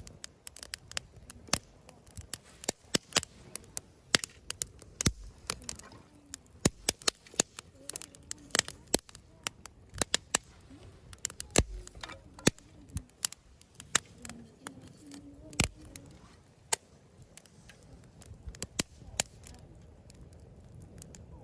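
Campfire wood crackling: irregular sharp pops, several a second.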